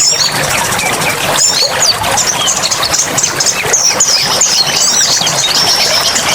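Dense chorus of several songbirds chirping and whistling, with many quick rising and falling notes, over a steady background hiss.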